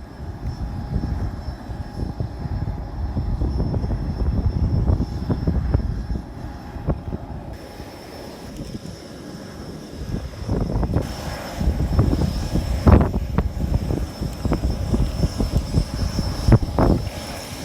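Cessna 172 engine running at low power while the plane taxis: a steady low rumble that eases off for a moment in the middle, with a few short thumps in the second half.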